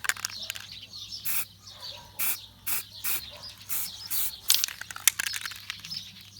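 Aerosol spray-paint can spraying matte black paint in a series of short hisses, about one or two a second.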